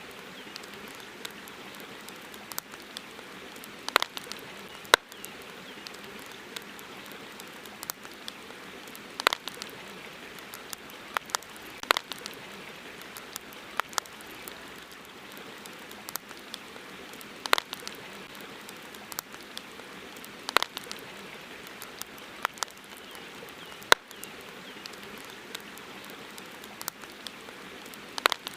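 Campfire crackling: sharp wood pops, some loud, every second or two, over a steady hiss.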